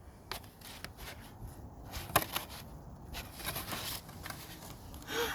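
Pages of a pop-up book being handled and turned: paper rustling with scattered light clicks, one sharper click about two seconds in.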